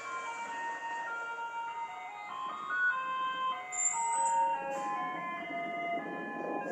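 Electronic melody from a Taiwanese garbage truck's loudspeaker, a tune of single held notes stepping up and down that announces the truck is coming to collect rubbish.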